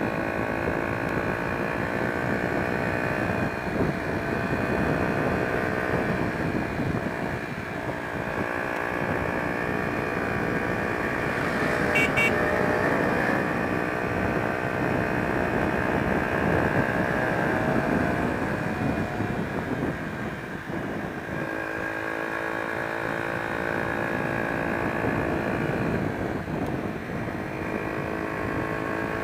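Honda XR125's single-cylinder four-stroke engine running steadily while under way, its note rising and falling slowly with throttle, over wind and road rumble.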